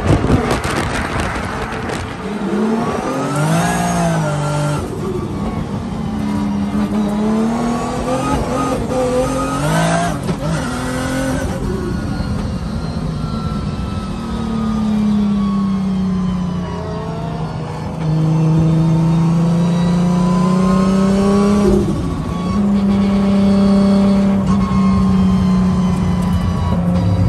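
Nissan Silvia S15 drift car's engine heard from inside the cabin while drifting, revving up and down with tyre and wind noise. In the second half the engine is held at a mostly steady high note, with brief dips.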